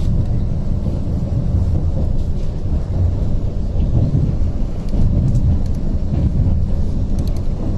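Steady low rumble of a Vande Bharat (Train 18) coach running at high speed, heard from inside the cabin: wheel and rail noise with rushing air.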